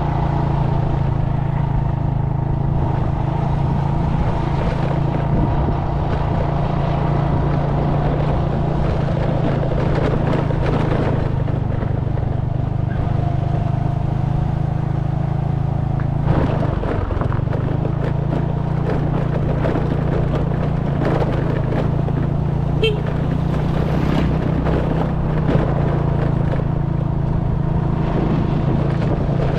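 A small boat's motor running steadily at cruising speed, with its note dipping briefly about sixteen seconds in before it picks back up.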